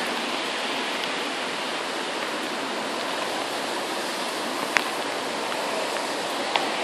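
Heavy rain falling steadily in a thunderstorm, an even hiss with a couple of sharp clicks, once about five seconds in and again near the end.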